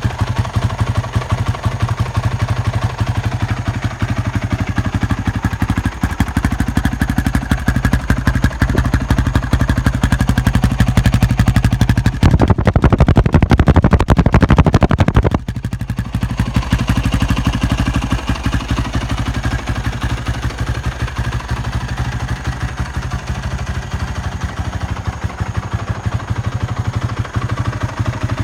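Single-cylinder four-stroke engine of a 2005 Yamaha WR450F dirt bike, breathing through an FMF Powerbomb header and Q4 slip-on silencer, idling cold without the choke. About twelve seconds in the revs rise for roughly three seconds, louder and quicker-firing, then drop back suddenly to the idle.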